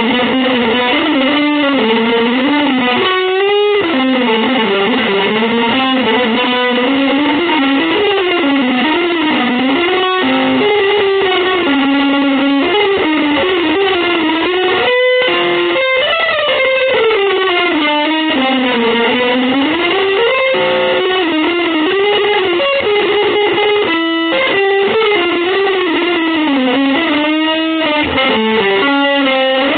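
Distorted electric guitar playing one continuous melodic line with slides and bends that glide up and down in pitch, with almost no breaks between notes.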